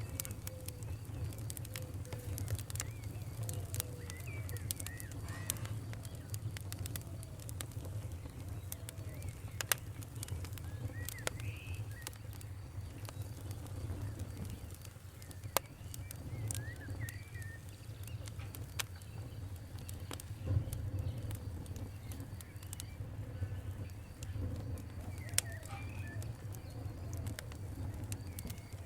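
Wood campfire crackling, with sharp irregular pops over a steady low rumble of flame. Birds chirp briefly now and then over it.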